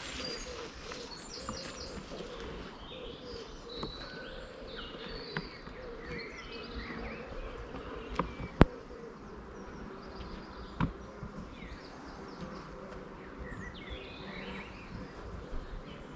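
A swarm of honey bees buzzing steadily, with birds chirping over it and a few sharp knocks, the loudest about eight and a half seconds in.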